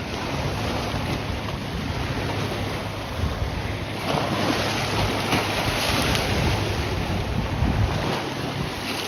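Lake Erie waves washing on a rocky shore, with wind buffeting the microphone; the surf grows louder about four seconds in.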